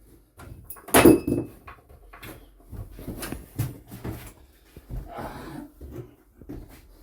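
Clicks, knocks and rattles of a TCT hole saw and its quick-change arbor being pulled apart and handled, with a loud knock about a second in.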